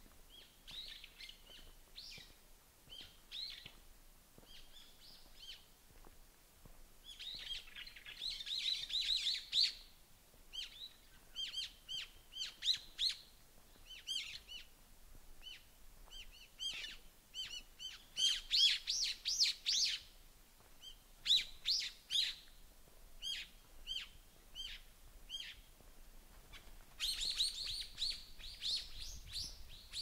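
Small songbirds chirping and calling: many short, high notes in quick series, with busier flurries of calls about a third of the way in, past the middle, and near the end.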